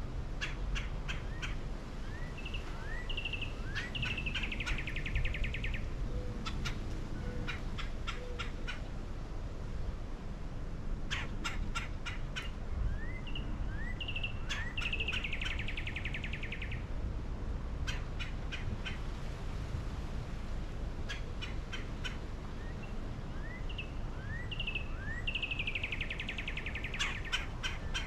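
A bird sings the same phrase three times, about ten seconds apart. Each phrase is a run of sharp clicks, a few short rising whistles and a buzzy rattle lasting a second or two.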